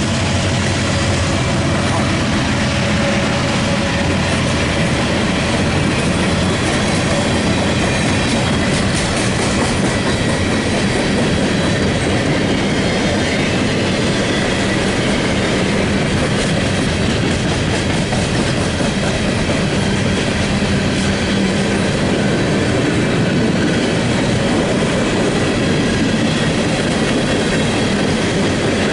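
Empty coal train rolling past, its steel wheels running loud and steady on the rails.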